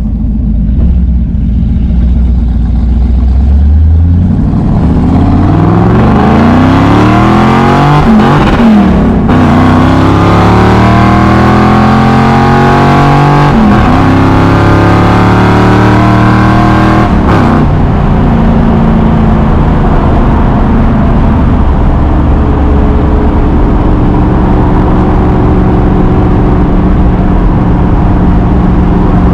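The carbureted 1965 Ford Mustang's engine and exhaust, heard from inside the cabin as the car pulls away. After a low steady hum it accelerates, its pitch climbing, dropping back and climbing again a few times as it shifts up, then settles to a steady cruise.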